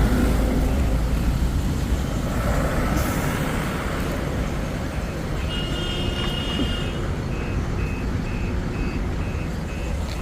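Truck engine and road noise, with a reversing alarm starting about seven seconds in and beeping about twice a second.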